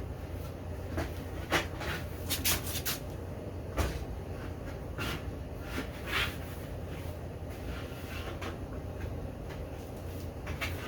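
Scattered knocks and clicks of parts and tools being handled, several in quick succession between about one and a half and three seconds in, over a steady low hum.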